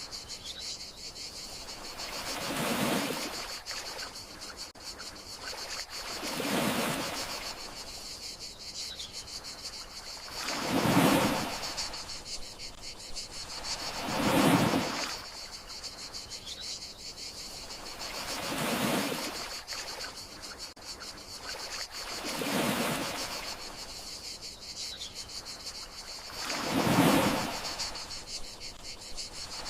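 Gentle sea waves washing in, one swell rising and fading about every four seconds, over a steady high chirring of crickets.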